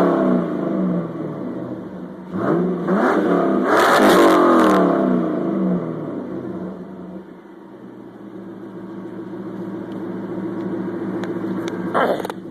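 2000 Pontiac Trans Am WS6's LS1 V8 through Flowmaster 80 Series mufflers, revved and let fall back. A short blip comes about two and a half seconds in, then a bigger rev a second later that falls away to a steady idle.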